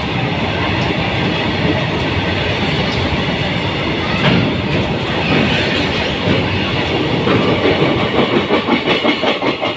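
Freight train of covered goods wagons passing at speed, steel wheels rumbling and clattering over the rail joints. Near the end the clatter settles into a quick, regular beat as the tail of the train goes by.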